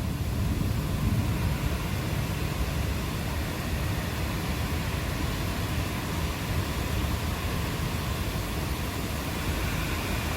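Steady rain falling during a thunderstorm, an even hiss over a deep low rumble that eases slightly over the first couple of seconds.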